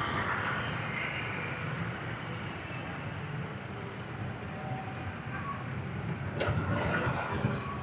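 Dense motorbike traffic: scooter engines running steadily with road noise, getting a little louder about six and a half seconds in.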